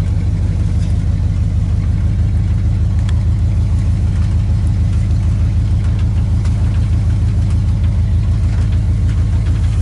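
The carbureted engine of a 1986 Oldsmobile Cutlass Supreme running steadily with a low, even pulsing beat, heard from inside the cabin, as the car creeps forward in gear on its first drive after sitting five years.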